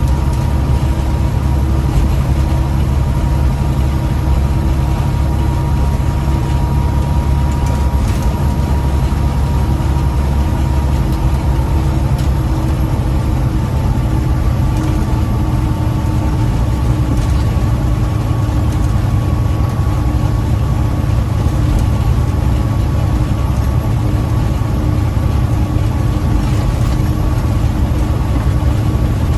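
Heavy diesel truck engine running steadily under load, heard from inside the cab while driving: a constant low drone with a faint steady whine over it.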